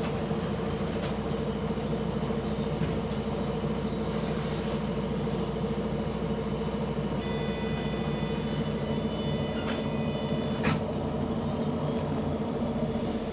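A double-decker bus's diesel engine running steadily, heard from on board, with the exhaust leak the recording is about. There is a short hiss of air about four seconds in, a high whine from about seven to ten seconds in, and a knock just before the end.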